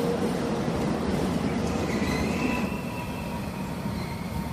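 Korail electric multiple unit rolling past at close range: a steady rumble of wheels on rail, with a thin, high wheel squeal rising about two seconds in and fading out shortly after.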